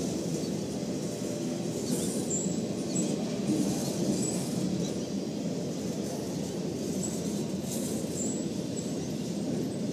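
Flatcars of the Ringling Bros. and Barnum & Bailey circus train rolling past, a steady rumble of steel wheels on the rails.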